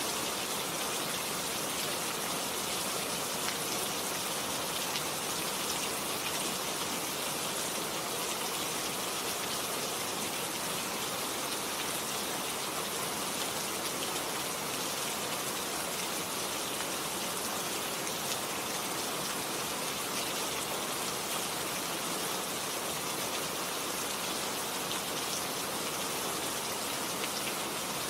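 Steady rain falling on surfaces, an even hiss of many drops with no change in intensity.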